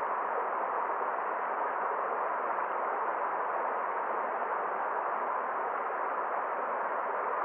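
Forest stream: water flowing with a steady, even rush and no other sounds.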